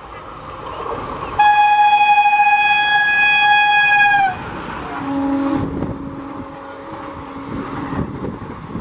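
WAP-4 electric locomotive's horn sounding one long blast of about three seconds, beginning about a second and a half in and dropping slightly in pitch as it cuts off while the locomotive passes. After it, the coaches rush by at speed with the clatter of wheels over rail joints.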